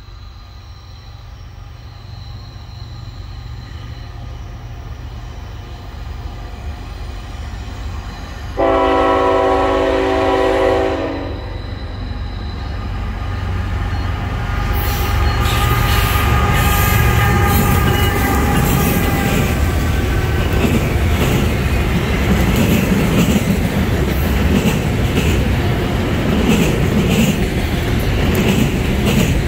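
Norfolk Southern diesel freight locomotive approaching, its engine rumble growing louder. It sounds one horn blast of about two and a half seconds, around nine seconds in. After that the locomotive and the autorack cars roll past with a loud rush of wheels on rail and steady clicking over the rail joints.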